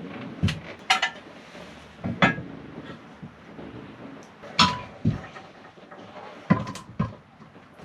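Irregular knocks and clacks of hard objects being handled and set down, about seven in all, a few with a short ringing clink.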